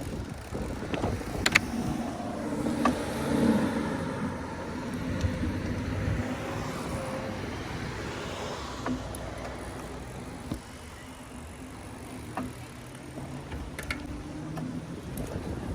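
Cars passing on a road, with a few sharp clicks.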